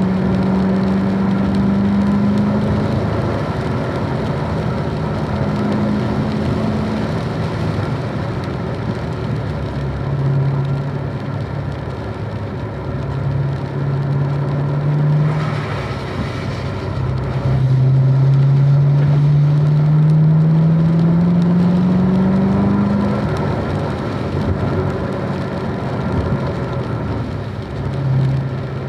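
A car engine running hard on a race track. Its note climbs slowly under acceleration and drops away sharply several times, the longest climb about two-thirds of the way through. A steady hiss of tyre and road noise runs under it.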